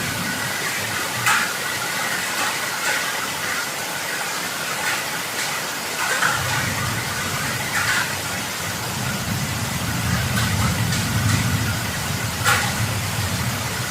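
Heavy rain falling steadily, with sharp drips and splashes every second or two. A low rumble comes in about six seconds in and swells toward the end.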